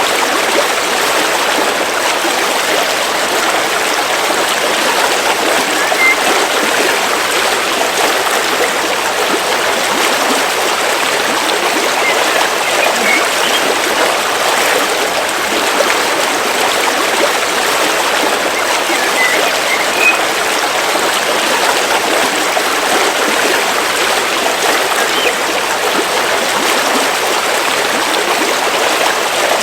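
River water flowing in a steady, even rush, with a few faint, short bird chirps now and then.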